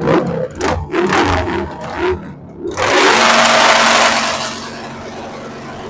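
Drag-racing motorcycle engines: a run of short, sharp revs, then about three seconds in a sudden loud full-throttle run that fades over the next couple of seconds.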